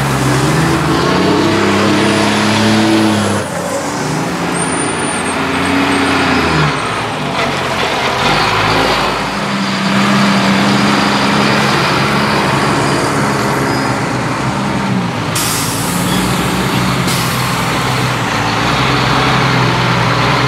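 Heavy military trucks running and driving off, their engine notes rising and falling as they pull away and change gear, with a brief high squeal about five seconds in.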